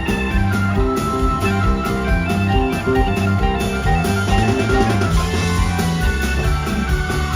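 Live country-rock band playing an instrumental passage: electric guitar lines over bass and drum kit.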